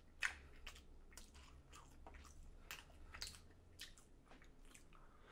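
Chewing a mouthful of keto egg tart: a faint run of soft mouth clicks and smacks, about two a second.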